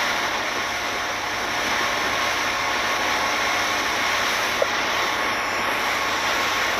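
Boat engine running steadily: a constant drone with a rushing noise of wind and water over it.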